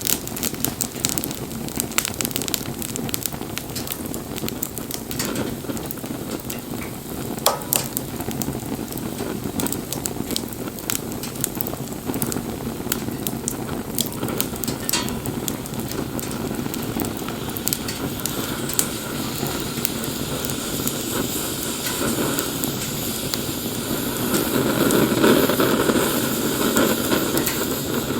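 Wood fire crackling, with sharp pops over a steady hiss of burning; the hiss swells a little louder in the last several seconds.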